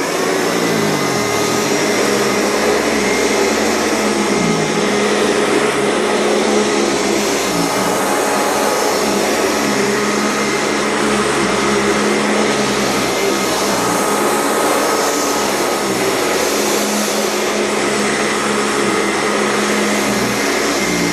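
Euroclean vacuum cleaner running steadily while vacuuming, a loud even motor drone and whine with small dips in pitch now and then.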